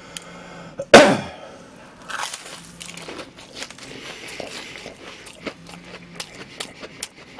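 Biting into and chewing a crispy deep-fried breaded cutlet roll, with one loud crunch about a second in, then a run of small crunching clicks as it is chewed.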